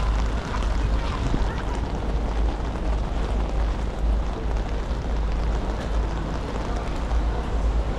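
Steady rain hiss with a low, gusty wind rumble on the microphone.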